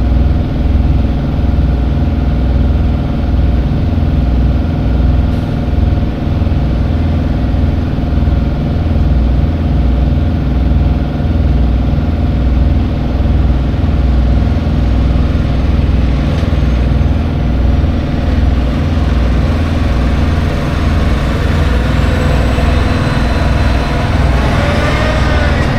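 A vehicle engine idling steadily with a deep hum. A brief wavering higher sound rises over it near the end.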